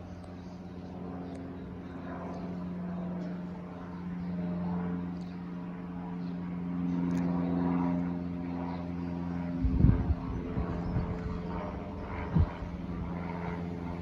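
Cessna 182 light aircraft passing overhead: the steady drone of its single piston engine and propeller, growing louder to a peak partway through, then easing. From about ten seconds in, low thumps break in, the loudest about ten and twelve seconds in.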